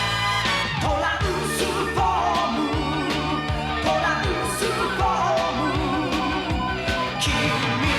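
Closing theme song of the cartoon: a singer with vibrato over pop-rock band backing with a steady drum beat.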